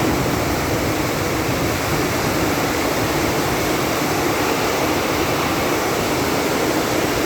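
Heavy rain pouring down: a steady, dense hiss that does not let up.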